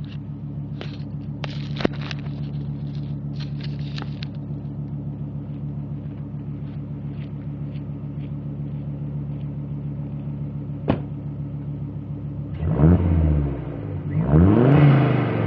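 Volvo 850 T5's turbocharged five-cylinder engine idling steadily through the exhaust, with a few sharp clicks. About twelve seconds in, it is revved in quick blips that rise and fall in pitch.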